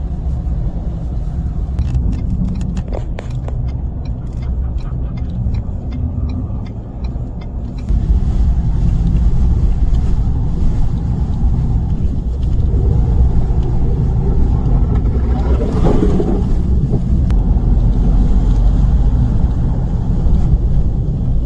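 A steady low rumble with scattered clicks over the first several seconds. It gets louder about eight seconds in, and there is a brief pitched sound around two-thirds of the way through.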